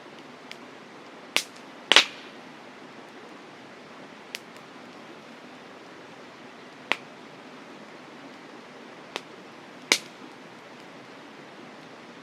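Campfire burning: wood crackling with a handful of sharp pops, the loudest about two seconds in, over a steady rushing hiss.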